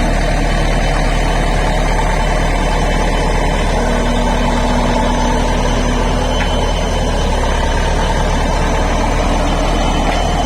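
Bulldozer's diesel engine running steadily at an even level, with no revving or clanks.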